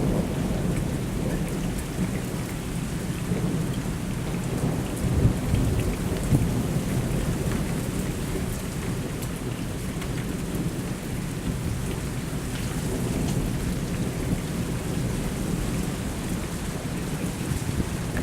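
Thunderstorm: rolling thunder rumbling almost without pause over steady rain, with a couple of louder surges about five and six seconds in.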